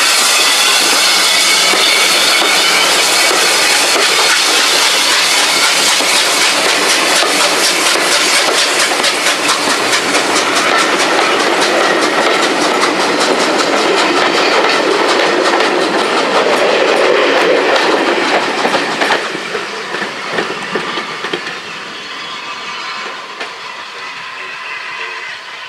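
Steam-hauled train rolling through the station, its carriage wheels clicking steadily over the rail joints. The sound is loud, then falls away about three-quarters of the way through as the train moves off.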